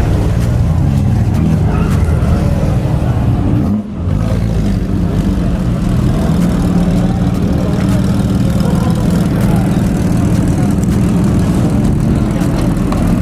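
Steady low drone of car engines running, dipping briefly about four seconds in.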